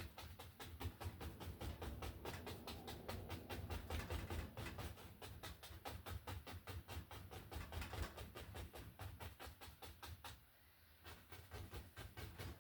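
Fast, even tapping of a paint-loaded brush against a stretched canvas, about five or six light taps a second, as foliage is dabbed on in Bob Ross-style oil painting.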